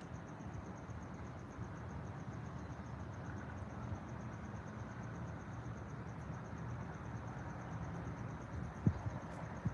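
An insect chirping steadily, a high, evenly pulsed trill that does not change, over a low steady rumble. Two short knocks come near the end.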